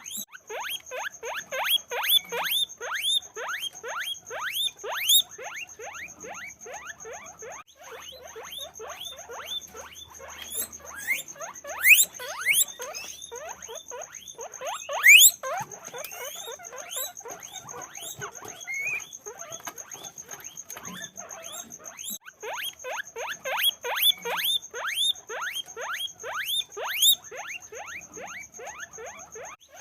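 Many guinea pigs squeaking, a dense chorus of short, rapid squeaks that swells into louder bursts now and then, over a steady high-pitched whine.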